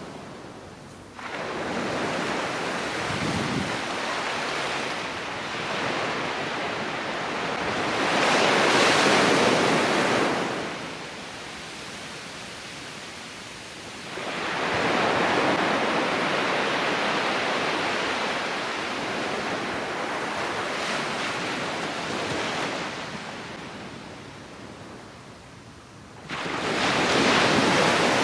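Ocean surf on a sandy beach: waves break and wash up the shore in rising and falling surges, with breakers about a second in, around eight seconds in, around fourteen seconds in, and again near the end.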